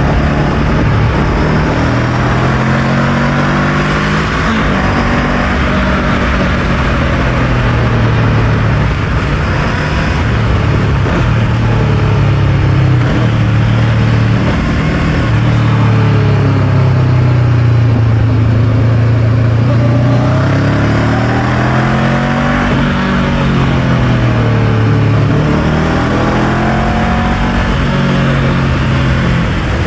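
Honda NX500's 471 cc parallel-twin engine running under way, its pitch rising and falling again and again as the bike accelerates, shifts and slows, with steady wind rush over it.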